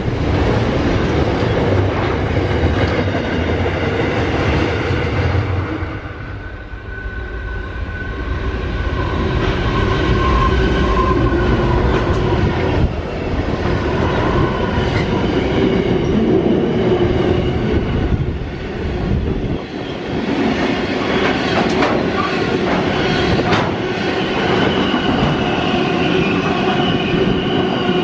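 Freight trains passing at speed on the main line: wagon wheels clattering and rumbling over the rails, with a thin steady metallic whine from the wheels. A diesel locomotive goes by close in the middle, and the wagon noise eases briefly about six seconds in before building again.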